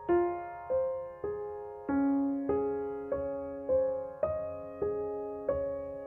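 Slow, gentle background piano music: single notes struck one at a time, about every half second, each ringing and fading before the next.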